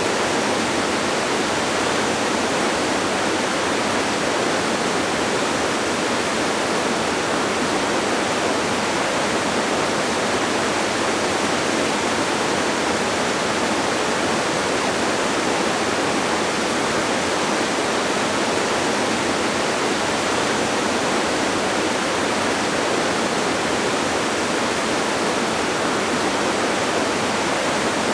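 Distant waterfall: a steady, unchanging rush of falling water.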